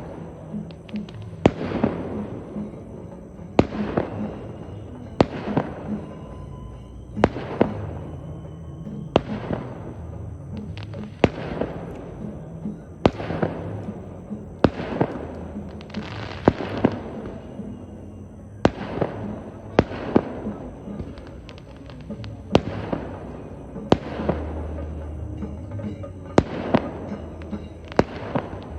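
Fireworks going off in a long series of sharp bangs, roughly one every second and a half, each trailing away briefly.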